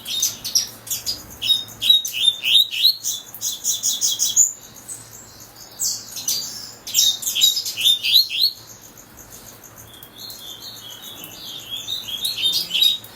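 Double-collared seedeater (coleiro) singing: phrases of rapid, high chirping notes, broken by two short pauses, the first about four and a half seconds in and the second about eight and a half seconds in.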